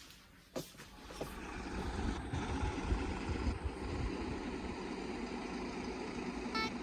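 A click, then steady street traffic rumble that swells up over the first two seconds and holds, with music starting at the very end.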